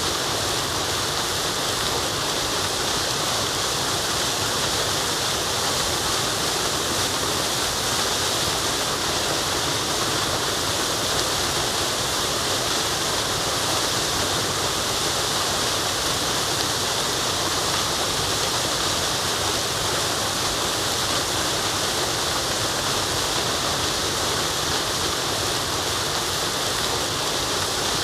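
Waterfall pouring steadily: a constant, unbroken hiss of falling water, strongest in the upper range.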